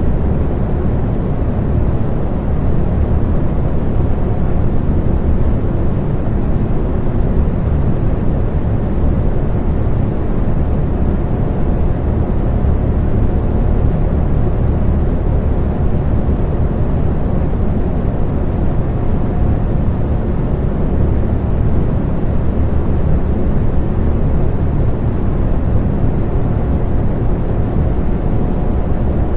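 Electric fan running steadily: an even, low rushing noise with a faint steady hum.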